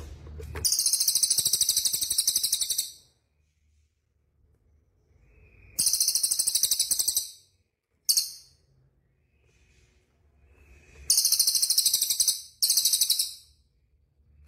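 A small songbird giving loud, high-pitched, very rapid rattling trills in five bursts of one to two seconds each, with short silences between them.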